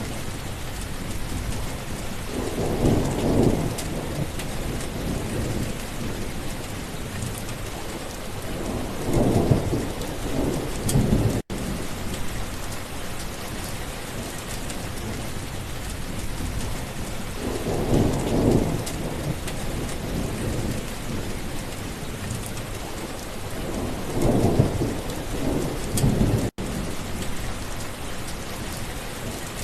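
Steady rain falling, with thunder rumbling low four times, every six to eight seconds. Twice the sound cuts out for an instant.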